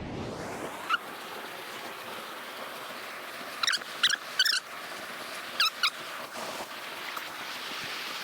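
Steady rush of a waterfall, with short, high, warbling chirps over it: one about a second in, three in quick succession in the middle and two more shortly after.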